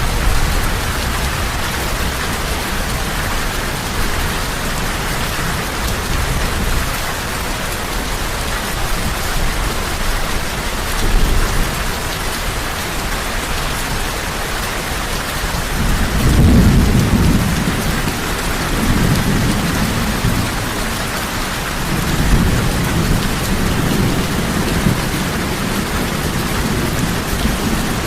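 Heavy rain falling steadily, with a low rumble of thunder rolling in about two-thirds of the way through and rising and falling.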